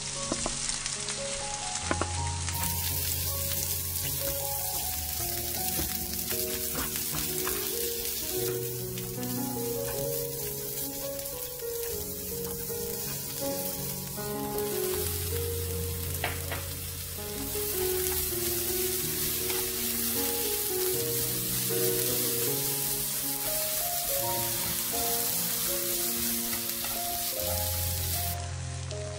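Sliced cucumber and garlic sizzling steadily in oil in a nonstick frying pan as they are stir-fried over medium-low heat, driving off the cucumber's moisture. Background music plays under it.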